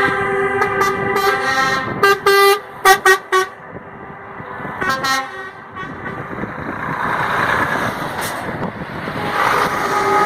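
Truck air horns sounding: a long held blast for the first two seconds, then short toots about two and three seconds in and again around five seconds, followed by a stretch of steady vehicle noise without horns.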